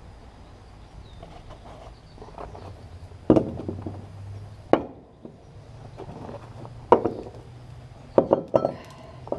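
Several sharp knocks a second or two apart, then a quick cluster of knocks near the end: a hot steel ingot mould being struck to free a freshly cast aluminium ingot.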